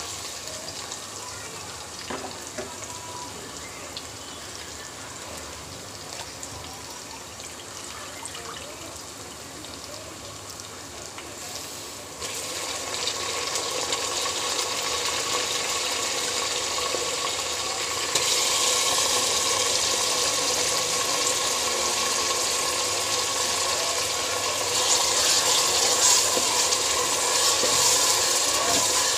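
Beef pieces and sliced onions sizzling in hot oil in a pressure cooker, a steady hiss that grows louder in two steps, about twelve seconds in and again around eighteen seconds.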